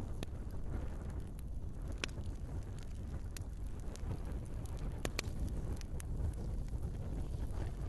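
Wood fire burning in a fireplace: a steady low rumble of flames with irregular sharp crackles and pops from the burning logs, including a quick pair of pops about five seconds in.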